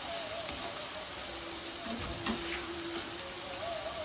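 Onion-tomato masala sizzling in a nonstick frying pan as a spatula stirs it, with a short scrape of the spatula against the pan a little over two seconds in. The masala is being cooked down so its gravy forms.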